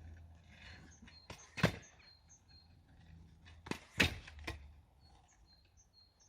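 A kick scooter clattering on pavement during flatland tricks: sharp clacks, two together about a second and a half in and another cluster about four seconds in.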